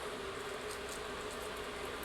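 Water boiling in an electric fryer: a steady hiss over a steady low hum, with a few faint high ticks.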